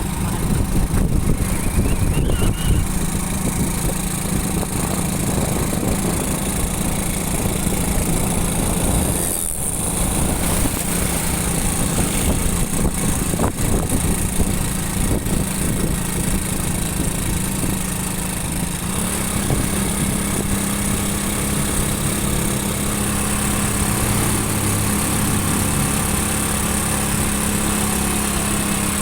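Small motorcycle engine running steadily under a continuous low rumble, with a brief dip in the sound about nine seconds in.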